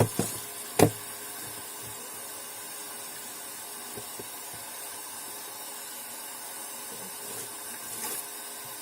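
Water running steadily from a tap during a hand rinse of dyed fabric, with two sharp knocks in the first second.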